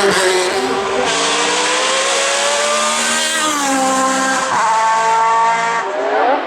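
Hill-climb race car engine at hard throttle. Its pitch climbs, then drops abruptly with each gear change, a few times over.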